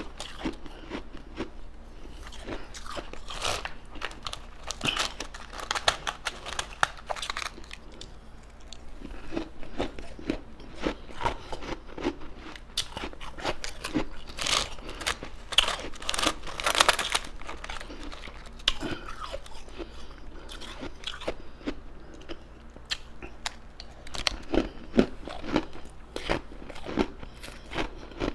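Close-miked crunching and chewing of ice in the mouth: a dense run of sharp, irregular crunches.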